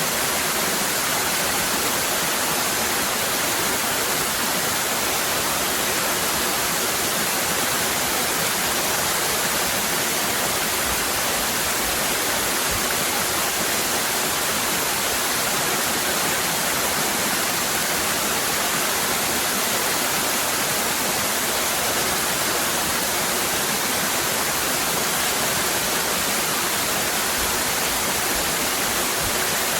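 Cascading waterfall: a steady, even rush of water that never lets up.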